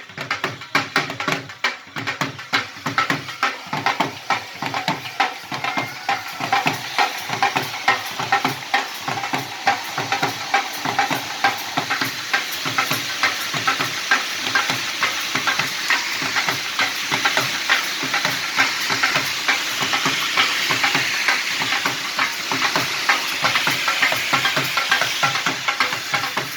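Fireworks crackling: a dense, rapid run of small pops and crackles that grows thicker and more continuous in the second half.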